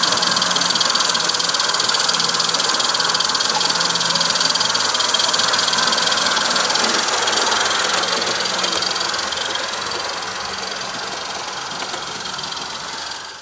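16mm-scale live steam locomotive running close by: a steady hiss of steam and exhaust. It grows fainter over the last few seconds and cuts off at the end.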